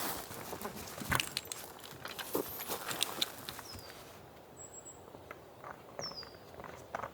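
Scattered light taps and knocks, with a small bird giving short falling chirps and one thin high whistle in the second half.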